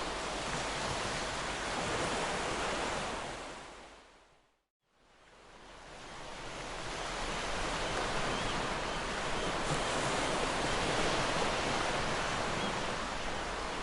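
Ocean waves washing on a shore in a steady rush of surf. About four seconds in the sound fades out to a brief silence and then fades back in over a couple of seconds.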